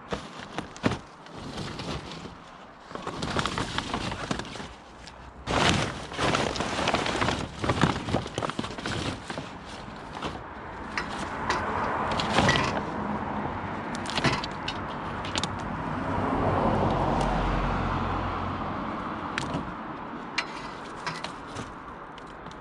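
Rummaging through scrap in a skip: irregular clatters, knocks and scrapes of loose junk being moved. About halfway through, a vehicle passes, swelling and fading.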